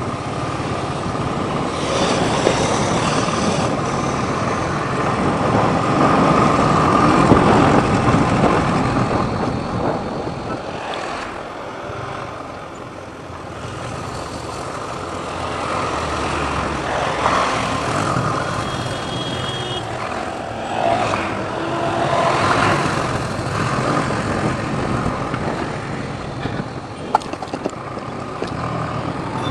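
Riding noise on a motorcycle in traffic: the engine runs under a continuous wash of wind and road noise, with other vehicles around it. About two-thirds of the way in, a brief high-pitched tone like a vehicle horn sounds.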